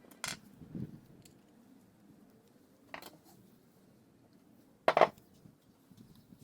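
Small metal parts or hand tools clinking: three separate sharp clinks, the loudest about five seconds in.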